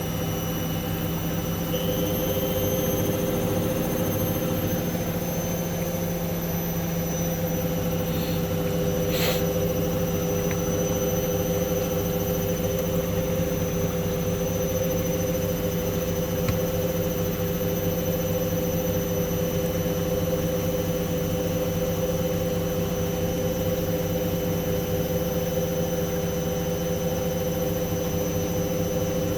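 Hoover washing machine on the final spin of a cotton 90 wash, its drum at spin speed: a steady, high motor whine over a low hum.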